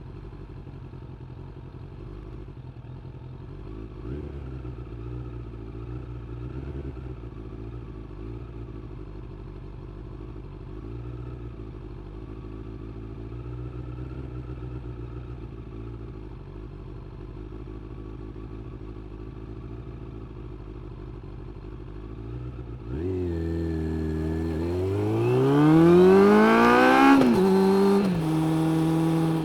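Suzuki GSX600F's inline-four engine running steadily at low revs for most of the time. Near the end it gets much louder as the throttle opens and the revs climb in one rising pull, then drop sharply at an upshift and settle at a steady higher note.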